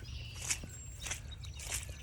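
Footsteps walking along a forest trail, a few steps a second, with a brief high bird note about a third of the way through.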